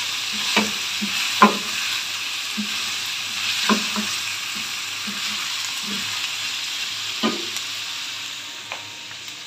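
Mutton, onions and whole spices sizzling as they fry in oil in a stainless steel pot, stirred with a wooden spatula that knocks and scrapes against the pot at irregular moments. The onions are being fried only until lightly pink. The sizzle eases slightly near the end.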